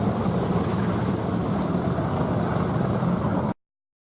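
Sprint car engines running on a dirt speedway track, a loud, steady rumble that cuts off suddenly about three and a half seconds in.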